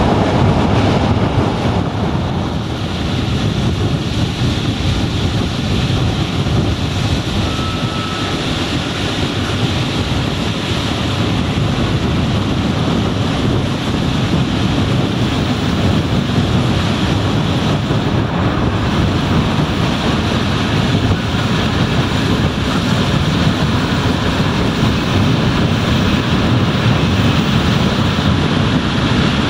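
Steady rumble of a moving passenger train's wheels on the rails, with wind buffeting the microphone over it.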